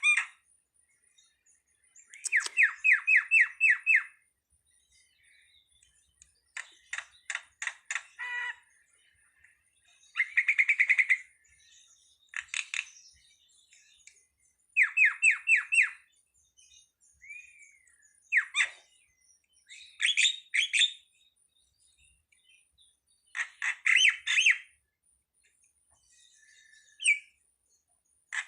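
Jalak (Indonesian starling) calling: repeated bursts of rapid chattering notes, each burst a second or so long, separated by short pauses.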